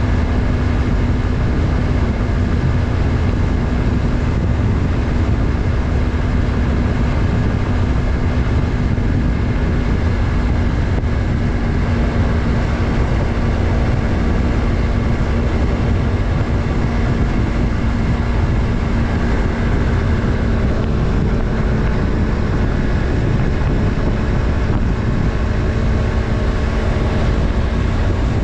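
Yamaha MT-03's 321 cc parallel-twin engine running at a steady cruise, its pitch holding nearly constant, under a heavy rush of wind and road noise.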